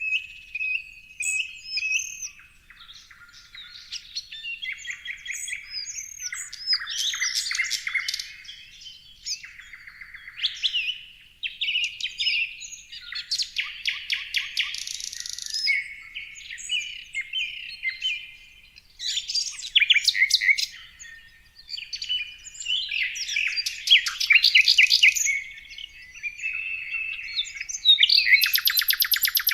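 Several small songbirds chirping and singing at once in a dense, overlapping chorus of quick chirps, rapid trills and short whistled notes, with no let-up.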